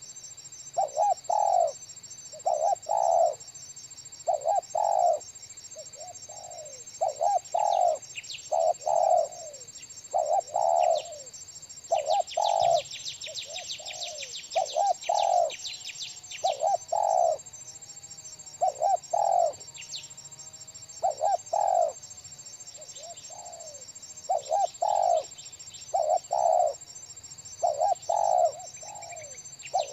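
Spotted dove (tekukur) cooing in repeated short phrases of two or three notes, a decoy bird calling to lure wild doves down. Around the middle, a quick run of high chirps from another bird.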